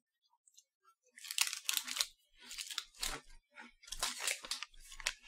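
Crunching as a hard shortbread cookie with a chocolate filling is chewed, in four short spells starting about a second in.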